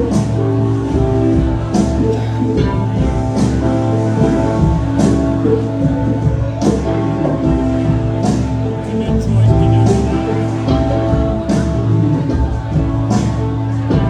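Live band playing a slow song led by guitar over bass, with a sharp drum hit about every second and a half.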